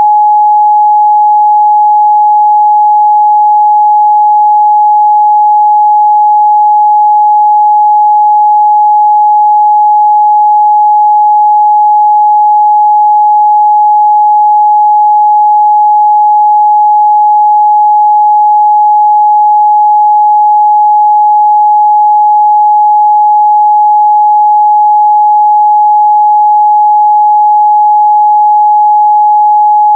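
A steady, loud 841 Hz sine-wave test tone: one pure pitch held without change.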